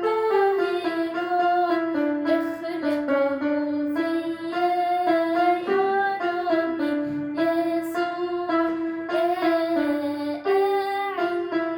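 A young girl singing a hymn, holding long notes over keyboard accompaniment.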